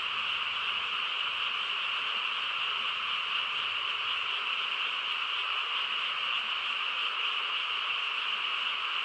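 A dense chorus of many frogs calling at once, blending into one steady, unbroken din.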